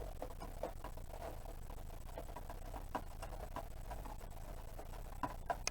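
Faint scattered clicks and light taps from handling the loosened plastic top of a portable fridge, a few sharper ones near the end, over a low steady hum.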